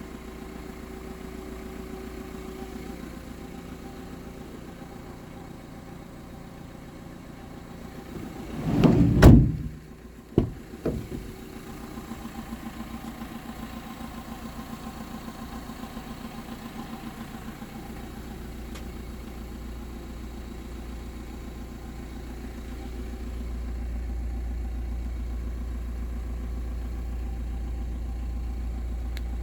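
Fiat Doblo's 1.6 JTD four-cylinder turbo-diesel idling steadily, with one short loud rev about nine seconds in, followed by two sharp knocks. A low rumble grows louder in the last third.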